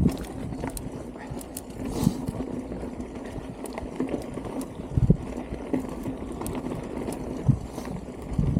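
Strong wind buffeting the microphone, with low thumps in the gusts and scattered clicks and rattles over a steady low hum.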